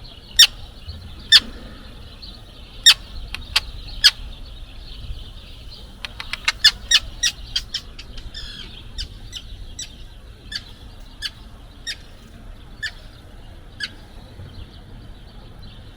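Gulls calling: a run of short, sharp calls at irregular intervals, crowding together about six seconds in and thinning out near the end.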